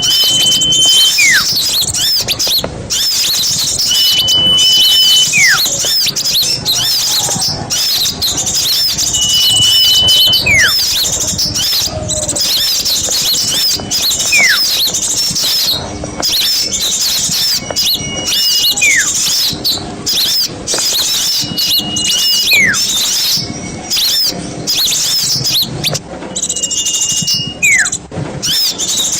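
Small songbirds singing in a dense, continuous chatter of high chirps, over which one call repeats about every four to five seconds: a held high whistle, then a quick falling sweep.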